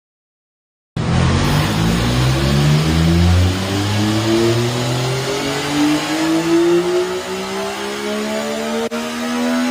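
Sport motorcycle engine pulling hard under load in one long run, as on a dynamometer. Its pitch rises steadily for about eight seconds, after a second of silence at the start.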